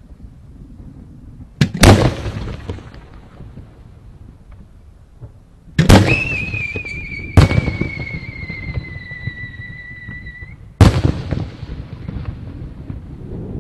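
Aerial firework shells bursting: four loud booms, each trailing off in rumble and crackle. Just after the second boom, a high whistle holds for about four and a half seconds, sinking slightly in pitch before cutting off.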